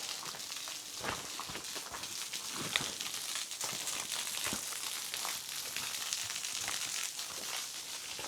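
Waterfall spray splashing onto rock as a steady high hiss, with footsteps scuffing and crunching on rock and grit throughout.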